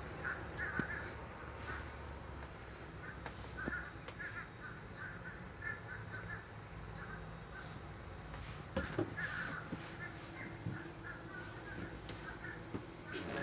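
Birds calling in the background, repeated short calls in small clusters, with a few faint clicks or knocks.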